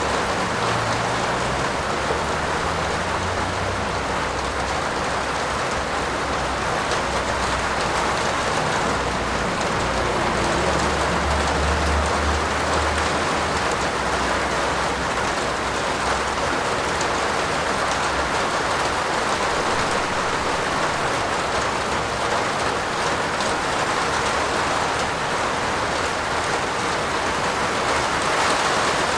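Steady heavy rain falling on a roof, an even hiss of drops. A faint low rumble sits under it through roughly the first half.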